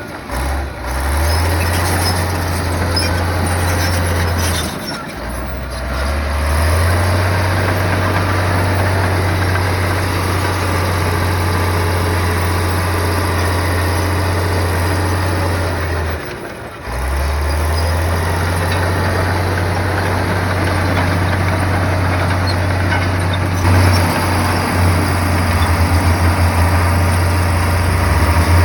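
Komatsu bulldozer's diesel engine running steadily, its low hum dropping out briefly about five seconds in and again a little past the middle, then turning to a rapid pulsing near the end.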